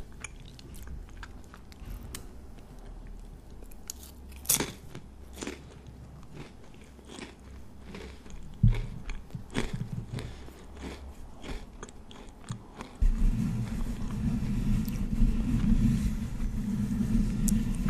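Close-miked crunchy bites and chewing of a crisp snack, with sharp crackles scattered through the first part. About two-thirds of the way in, hands cup and rub over the microphone's grille, bringing in a dense low rumble that continues.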